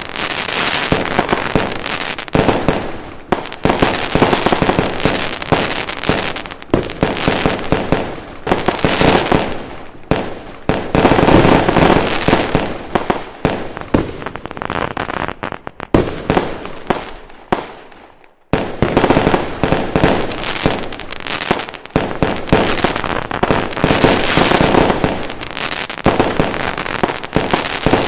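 Fireworks going off in a dense, continuous barrage of bangs and crackling, with booming echoes between the reports. The barrage thins briefly about 18 seconds in, then picks up again just as dense.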